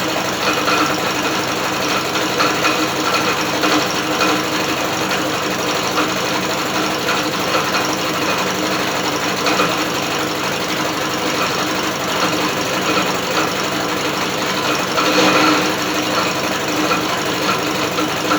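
British Seagull outboard motor turned over by an electric drill, clattering steadily with the drill running. It swells briefly louder about fifteen seconds in. The mechanism is not sounding very healthy.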